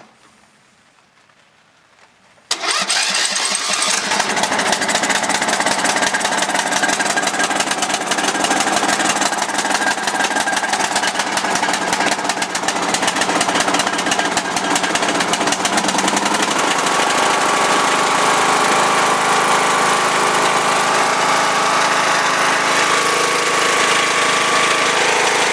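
Riding lawnmower engine starting: near silence, then it catches suddenly about two and a half seconds in and keeps running steadily with a rapid even beat.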